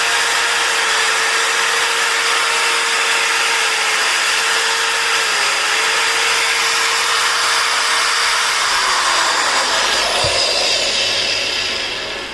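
Makita MT401 marble cutter's motor running at a steady speed, then switched off about eight and a half seconds in, its whine falling as it spins down. This is a test run after a housing bearing replacement.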